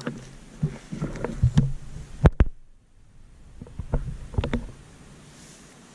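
Irregular handling knocks and clicks, with two sharp, loud knocks about two seconds in and another cluster of knocks near the four-second mark.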